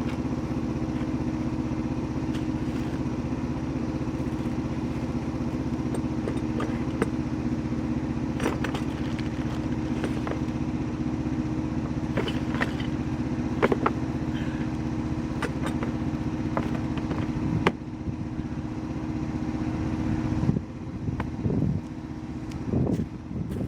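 Chinese excavator's engine running steadily, with scattered sharp metallic clanks, until the steady engine sound stops about twenty seconds in.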